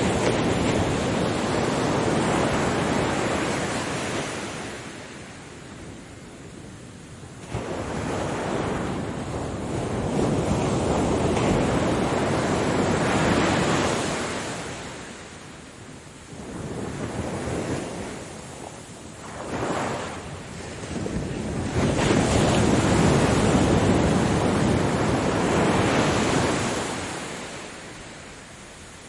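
Ocean waves surging in and drawing back. There are three long swells, each several seconds long, with two smaller ones between them and quieter lulls in between.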